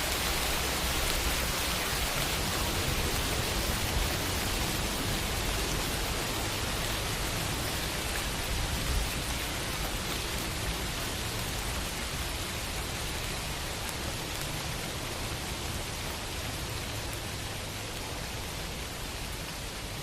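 Steady summer rain falling on a window, an even hiss that eases slightly toward the end.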